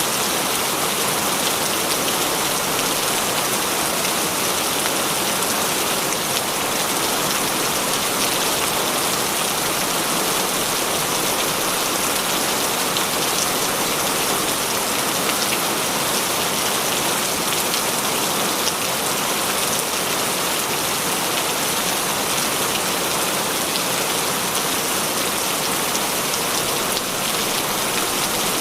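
Heavy rain falling steadily, a dense even hiss of drops with a few sharper drop taps here and there.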